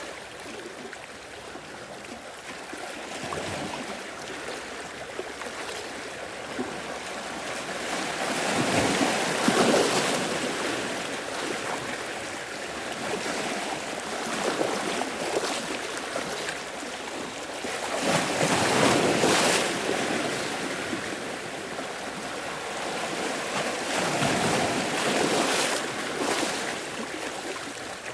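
Sea waves washing in and breaking on a beach, the surf swelling into a louder rush about every five or six seconds before falling back.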